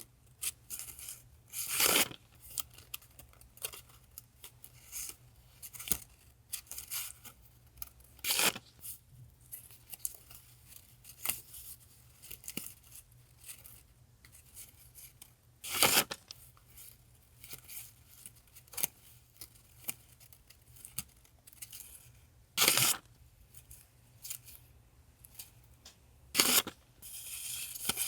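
Handmade paper die-cuts being handled: soft rustling and sliding of paper throughout, with five louder, crisp paper sounds spaced several seconds apart. A steady low hum from a nearby refrigerator runs underneath.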